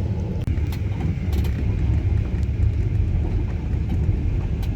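Steady low rumble of a moving passenger train heard inside the carriage, with scattered light clicks and rattles.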